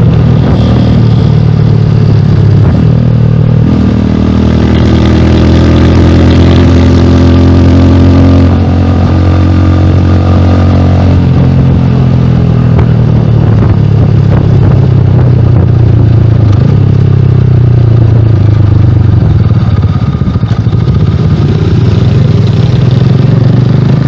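Rusi Classic 250 motorcycle engine running through a bullet-pipe exhaust on the stock elbow. Its speed climbs about four seconds in, eases off slowly, then builds and drops again later.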